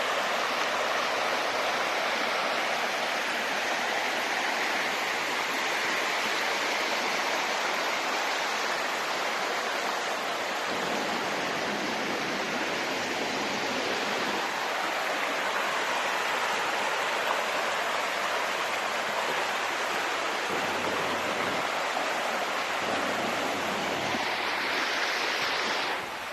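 Flowing water rushing steadily, an even hiss with no birdsong heard over it.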